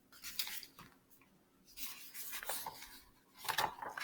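Paper pages of a picture book rustling as they are handled and turned, in several soft spells.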